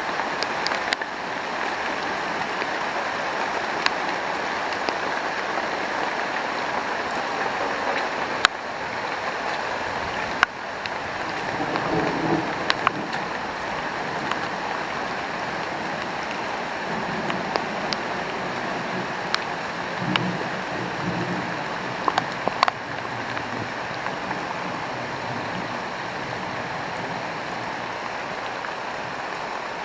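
Heavy rain pouring down in a steady hiss, with scattered sharp taps of drops striking nearby surfaces.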